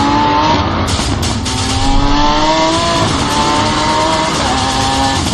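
Sports car engine accelerating hard through the gears: its note climbs in pitch and drops back at each upshift, several times over.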